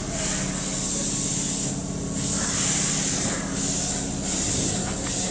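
Keihan 1000 series electric train standing at the platform: a steady low hum with a high hiss that swells and fades every second or so.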